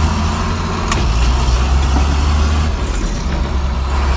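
John Deere farm tractor's diesel engine running steadily at idle, with a single sharp click about a second in.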